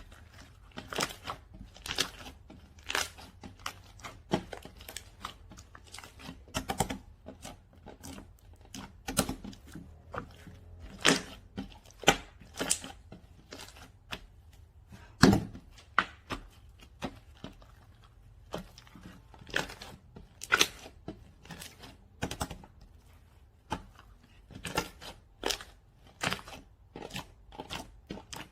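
Slime being squeezed and folded by hand, making sticky pops and clicks at an irregular pace of one or two a second, with one louder pop about halfway through.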